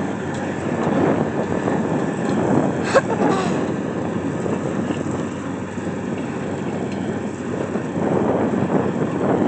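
Engine running steadily, with wind rumbling on the microphone; a short sharp click about three seconds in.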